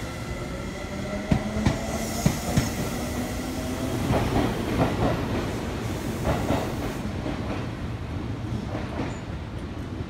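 Seibu 9000-series electric commuter train pulling away from the platform: its motors whine upward in pitch as it accelerates, and the wheels clack over rail joints several times. The rumble fades as the train recedes.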